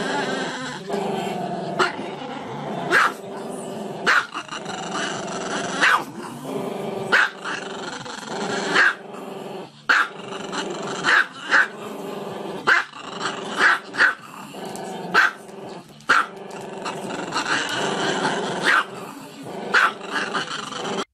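Small dog giving a drawn-out, growling howl with its head thrown back, broken by sharp short barks about once a second.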